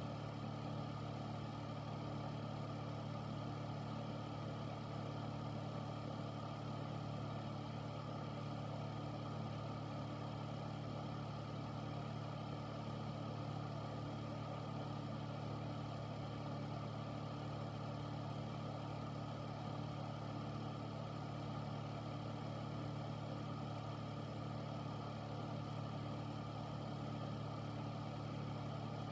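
Air filter running steadily: a constant low motor hum under an even whoosh of moving air, with no change.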